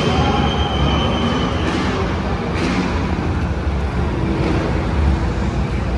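Steady low rumble of rally cars' engines running in a busy service park, echoing under a large steel-roofed shed, with a thin high whine for the first second and a half.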